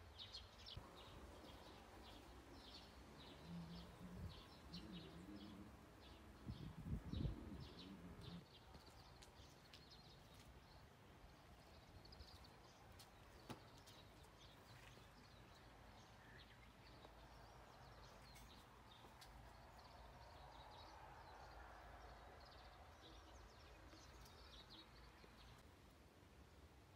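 Faint outdoor quiet with small birds chirping over and over, in short high notes. A few low thumps come about seven seconds in.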